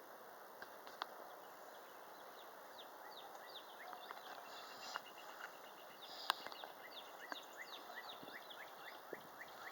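Wind blowing in a steady, fairly quiet hiss, with many short falling chirps, typical of small birds, and a few sharp clicks.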